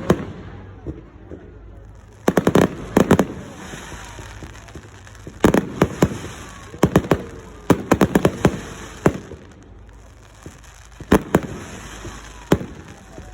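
Fireworks going off in rapid clusters of sharp bangs and cracks, several volleys a few seconds apart.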